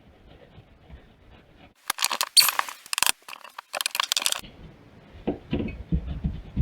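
A knife scoring a cut line in a wall in two scratchy strokes, about two and four seconds in, followed by a few lighter knocks.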